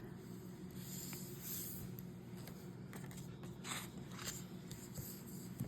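Faint, brief rustles and scrapes of paper scratch-off lottery tickets being handled, with a couple of light ticks, over a low steady room hum.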